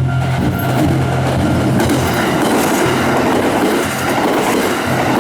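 Kintetsu Nara Line electric train passing over a level crossing, its wheels clattering on the rails; the sound grows fuller about two seconds in.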